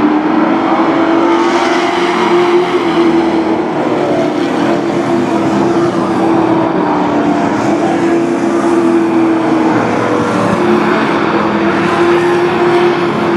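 Sport truck race engines running at speed around a short oval track: a loud, steady engine drone whose pitch rises and falls slightly as the trucks lap.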